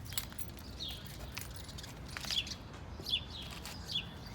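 A bird chirping: short chirps that fall in pitch, repeated about once a second, over a steady low background noise with a couple of faint clicks.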